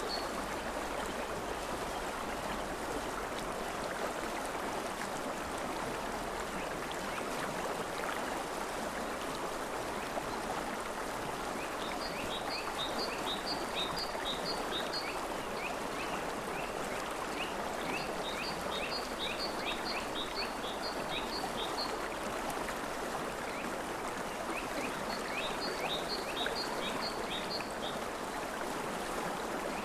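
River water flowing steadily. Over it an animal calls three times, each call a quick run of short, high chirps lasting about three seconds.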